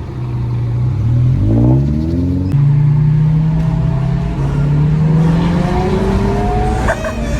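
Car engine revving and accelerating, its pitch rising in long sweeps, with a drop near the end like a gear change.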